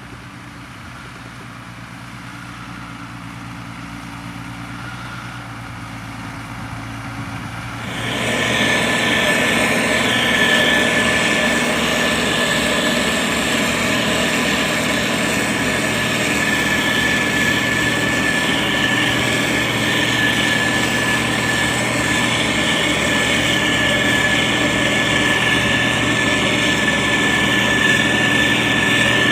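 Diesel engine of a SANY STG190C-8S motor grader running, slowly growing louder, then suddenly much louder and closer about eight seconds in, with a steady high whine over the engine.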